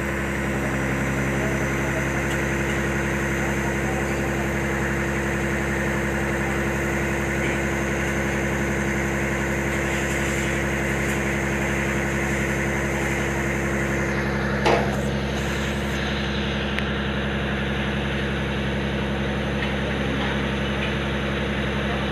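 Concrete pump truck's engine running steadily at a constant speed, with one sharp knock about two-thirds of the way through.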